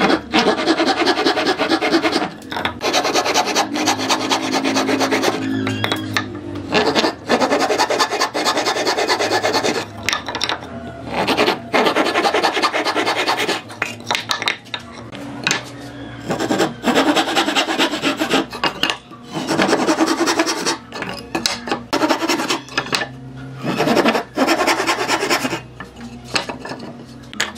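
Hand abrading of wood: rapid back-and-forth rasping strokes in runs, broken by short pauses.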